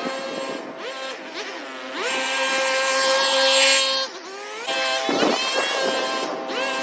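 Small gas engine of lawn equipment running at high speed, its pitch rising and falling as the throttle is opened and eased off: it climbs about two seconds in, drops about four seconds in, and climbs again near the end.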